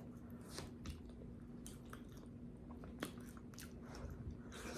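Close-miked mouth sounds of someone chewing a mouthful of hot potato: soft, scattered wet smacks and clicks, one sharper click about three seconds in, over a faint steady hum.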